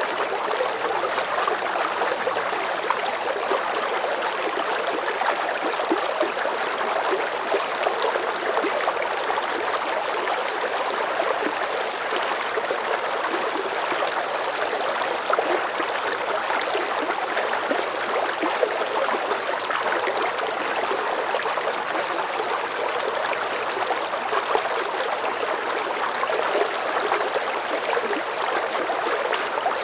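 Water running steadily, as of a stream, in an even unbroken rush with fine splashing detail.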